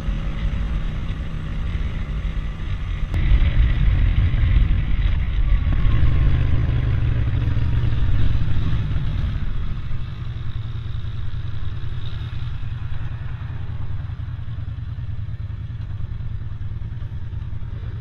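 Road noise while riding: a heavy low rumble of wind and traffic that swells for several seconds as a vehicle passes, then settles back.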